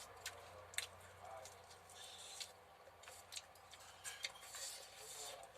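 Eating sounds from a mukbang: chewing with scattered sharp clicks and ticks, and a couple of short hissy smacks.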